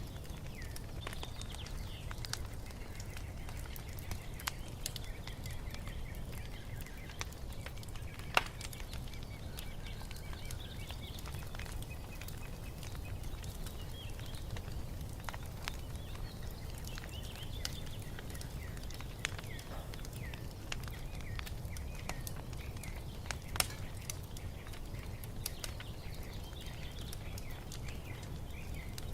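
Wood fire crackling, with scattered sharp pops (two louder ones, about 8 and 24 seconds in) over a low steady rumble, while small birds chirp and sing in the background.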